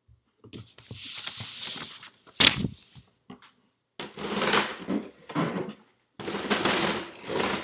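Rustling handling noises in several stretches, with one sharp click about two and a half seconds in.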